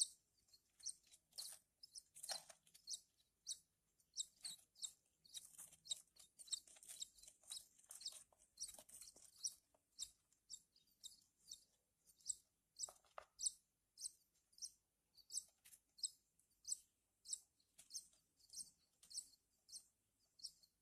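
A Javan bush lark (branjangan) chick cheeping over and over, short high chirps about two a second, begging to be fed. Twice a stronger, fuller call stands out, once early and once past the middle.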